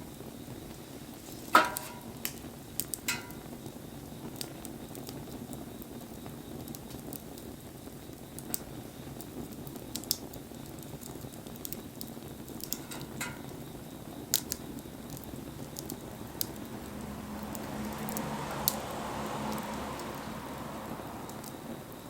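Wood bonfire crackling with scattered pops over a steady hiss. A few sharp clinks with a brief ring come about a second and a half in and again later. Near the end a hiss swells and fades.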